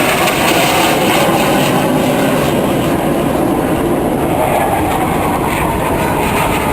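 Aircraft engine noise from a plane flying over, a loud steady rushing sound without breaks.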